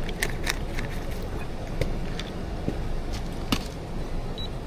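Steady low background rumble with a scattering of sharp light clicks and clinks, such as small cups and tools being handled while coffee is made.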